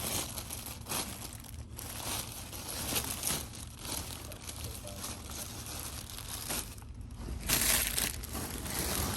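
Plastic packaging crinkling and rustling as packaged hoodies are handled and turned over, with a louder burst of crinkling near the end.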